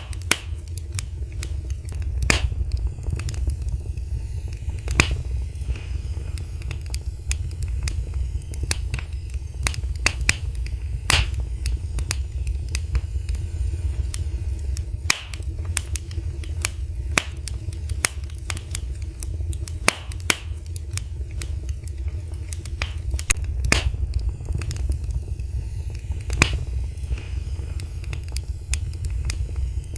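Wood fire burning with a steady low rumble of flames and irregular sharp crackles and pops, several a second, a few louder snaps among them.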